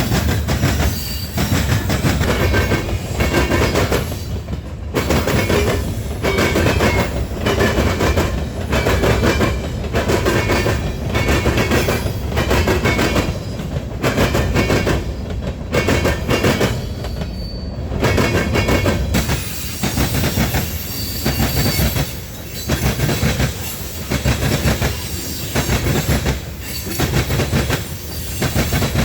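Train cars rolling past, their steel wheels clacking over the rail joints in a rhythmic clatter over a steady rumble. Brief high-pitched wheel squeals come through now and then.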